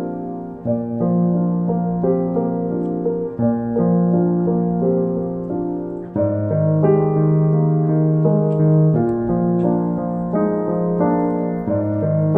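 Slow, calm solo piano music: held chords that change about every three seconds, growing a little louder about halfway through.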